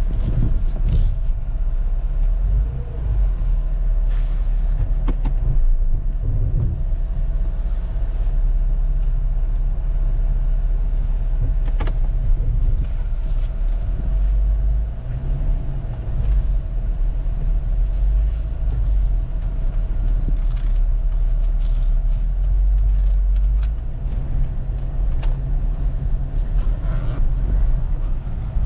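Steady low vehicle rumble, a car running close by, with a faint steady whine and occasional sharp clicks.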